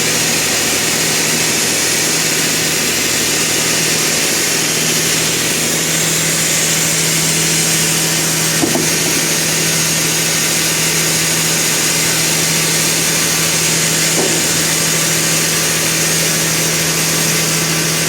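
Sawmill machinery running steadily with an even hum and a high, hissing whine, with a couple of faint knocks about halfway through and later on.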